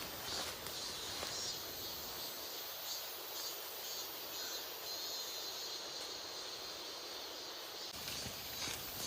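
Outdoor field ambience: a steady hiss of insects chirring, with light rustling and handling noise in the first two seconds and again near the end.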